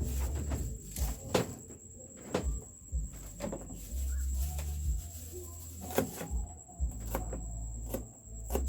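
Irregular light knocks and clicks of kitchen utensils against a bowl as fish salad is mixed, over a low rumble.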